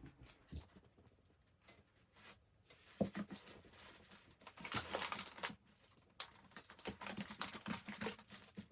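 Hands handling and arranging small items, with crinkling rustle and scattered light clicks and taps in irregular stretches after a quiet start.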